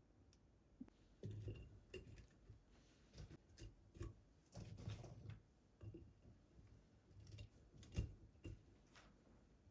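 Soft, irregular knocks and rustles of things being handled, with one sharper knock about eight seconds in.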